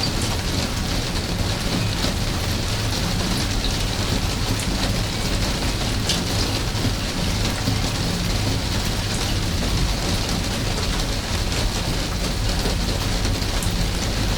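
Steady rain falling: a dense, even hiss with scattered drip ticks, over a steady low rumble.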